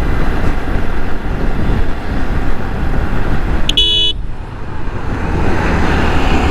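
Riding noise from a Yamaha R15 V3 motorcycle: its 155 cc single-cylinder engine and rushing wind on the helmet camera's microphone. A short horn toot sounds a little past the middle, and the noise dips briefly right after it.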